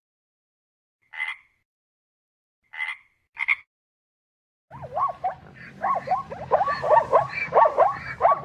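Animal calls: three short, separate calls in the first few seconds, then from about halfway a dense chorus of many overlapping quick calls.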